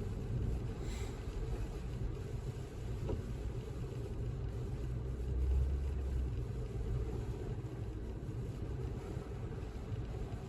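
Low, steady road and engine rumble heard inside a moving car's cabin, briefly swelling about halfway through.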